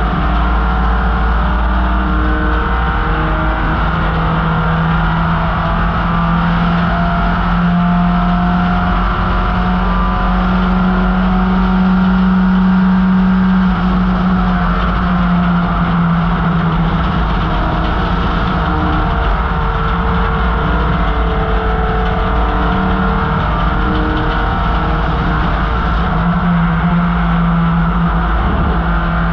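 1968 MGB GT's 1.8-litre B-series four-cylinder engine running hard under racing load. Its note climbs slowly, drops about halfway through and dips briefly near the end, as the throttle and gears change.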